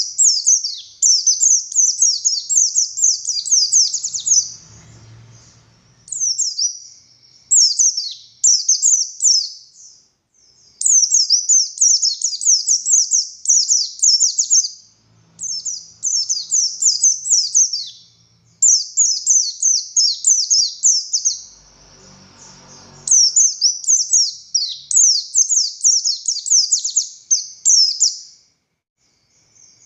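A white-eye (pleci buxtoni) singing hard: fast, high, twittering song phrases of two to four seconds each, repeated with brief pauses between them.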